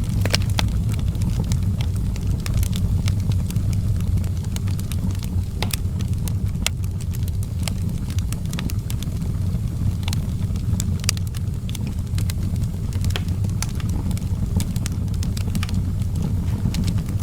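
Wood fire in an outdoor fireplace crackling, with sharp pops scattered irregularly over a steady low rumble.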